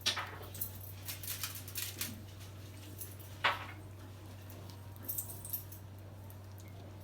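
Metal clinking and clattering of a baking tray of chicken skewers being put into the oven, with two louder knocks, one at the start and one about three and a half seconds in, over a steady low hum.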